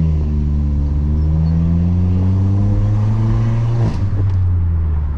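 Stage 2 tuned VW Polo GT TSI's 1.2 turbo four-cylinder, heard through a full-system exhaust with a Remus valvetronic muffler, under acceleration: the engine note rises steadily for about four seconds, then the revs drop sharply.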